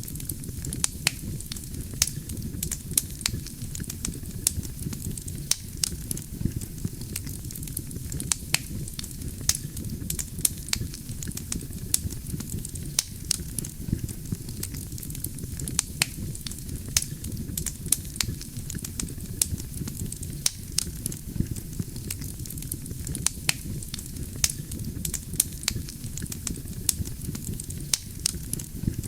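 Wood fire burning steadily, with a low rumble of flames and many sharp, irregular crackles and pops from the burning logs, several a second.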